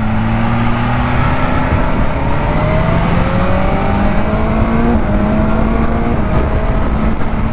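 Motorcycle engine accelerating, its note rising in pitch with a gear change about five seconds in, over heavy wind and road rush.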